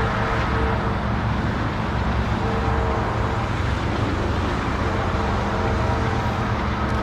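Diesel-led container stack train passing close by: a steady low rumble and rolling noise with steady engine tones over it, one higher tone fading in and out.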